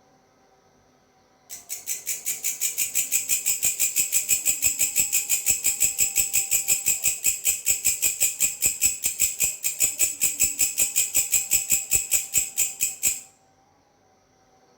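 Grasshopper (belalang) stridulating: a fast, even train of high-pitched rasping pulses, about six a second. It starts abruptly about a second and a half in, swells over the first second, and stops abruptly near the end.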